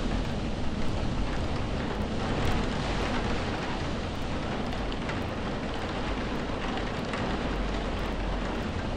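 Steady heavy rain, a dense even hiss with a deep low rumble beneath it.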